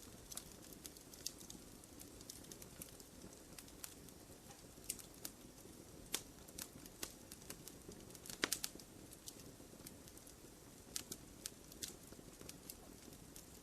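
Wood fire crackling in a fireplace: sharp irregular pops and snaps over a low steady hiss, with a quick cluster of louder pops a little past the middle.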